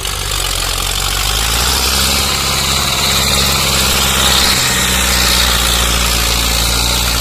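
Tractor engine running steadily, with a brief dip about four and a half seconds in.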